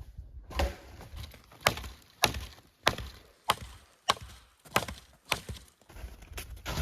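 Hatchet chopping firewood: a series of sharp wooden chops, about one every half second to a second.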